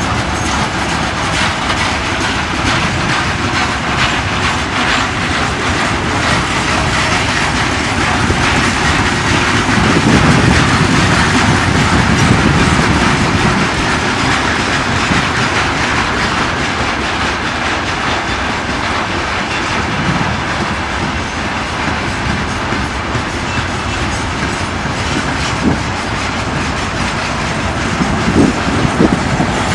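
Train wagons rolling past on the track, wheels knocking steadily over the rail joints, a little louder about ten seconds in.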